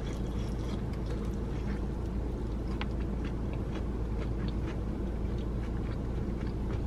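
Chewing a crispy, sauce-coated chicken wing: faint wet crunches and mouth clicks, over a steady low hum in the car's cabin.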